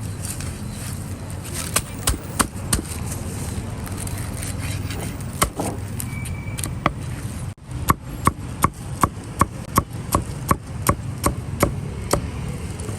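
Cleaver chopping on a wooden chopping block: a few scattered strikes, then a steady run of about a dozen chops, around three a second, in the second half.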